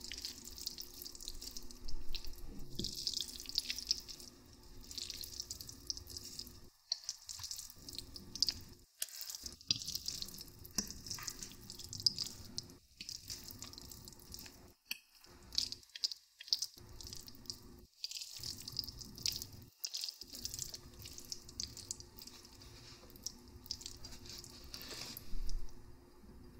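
Close-miked eating of saucy instant noodles: wet chewing and slurping, made of many small irregular wet clicks and smacks with brief pauses between mouthfuls.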